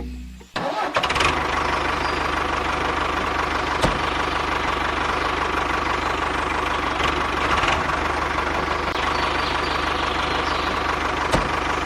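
A small motor running steadily, starting abruptly about half a second in and keeping an even pitch and level.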